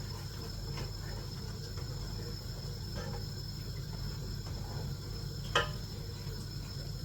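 Steady low kitchen hum with a thin high whine over it, and one sharp clink about five and a half seconds in, as of a utensil knocking against a dish or pan.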